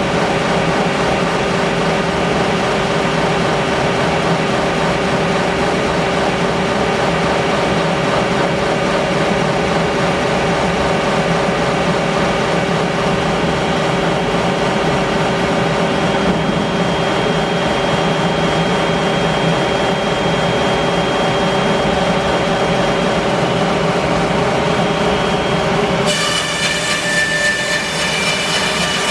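Bandsaw mill running steadily, sawing English larch, with a machine hum made of several steady tones. Near the end the sound shifts suddenly to a higher, brighter set of tones.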